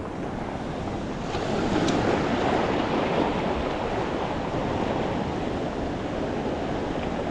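Ocean surf washing onto a sandy beach, a steady rush that swells about two seconds in, with some wind on the microphone.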